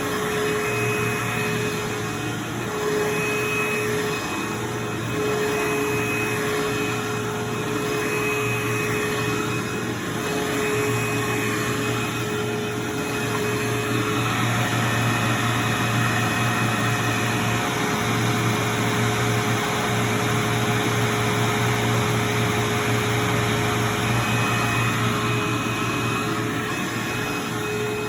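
Vacuum cleaner running steadily on carpet: a continuous motor hum with a constant whine.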